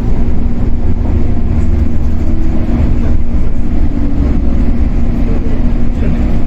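Inside a Shinano Railway 115 series electric train's motor car, running: a steady deep rumble of wheels and traction motors under a constant hum.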